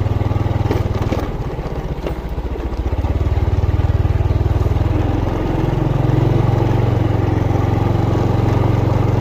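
Motorcycle engine running while riding. It eases off about a second in and picks up again from about three seconds.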